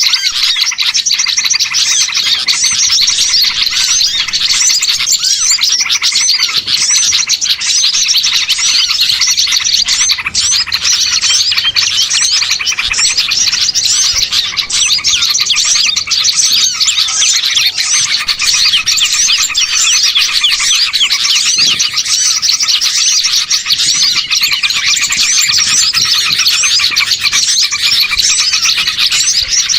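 Dense, continuous chorus of many small songbirds chirping and twittering at once, their quick calls overlapping without a break: a bird-lure (pikat) recording of small birds made to draw wild birds in.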